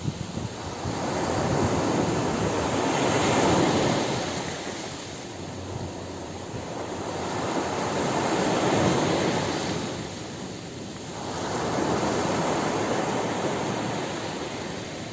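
Ocean surf breaking on a beach: three waves in turn swell up and wash back, about one every four to five seconds.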